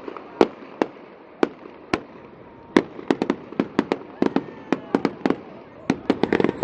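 Fireworks display going off: a run of sharp bangs and cracks, spaced out at first, then coming thicker and faster, with a quick crackling cluster near the end.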